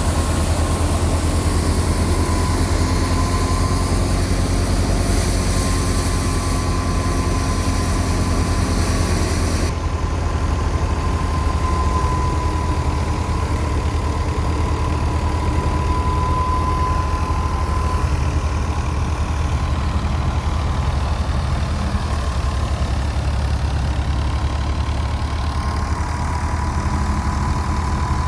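Diesel farm tractor engine running steadily, with a thin steady whine above its low rumble. A hiss in the high end drops away sharply about ten seconds in.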